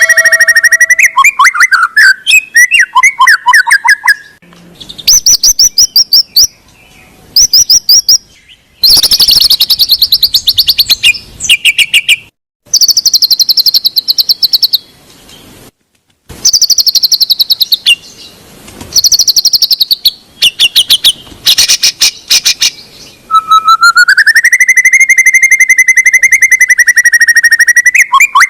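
White-rumped shama (murai batu) song: loud, varied phrases of fast trills and rattling notes alternating with drawn-out wavering whistles. The song stops abruptly a few times, around 12 and 16 seconds in.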